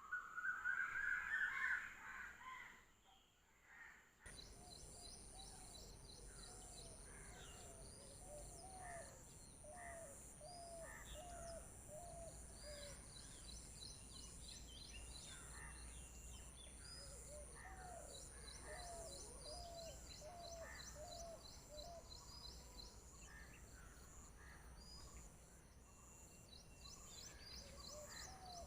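A crow cawing loudly in the first two seconds, then, after a brief pause, a quieter outdoor chorus of birds: repeated short calls and many high chirps.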